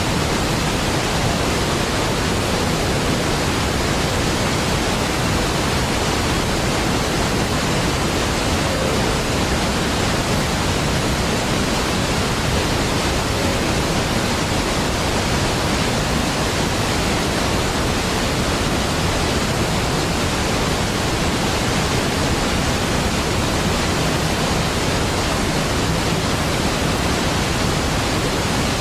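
Large waterfall pouring steadily: a deep, even, unbroken rush of falling water that holds a constant level throughout.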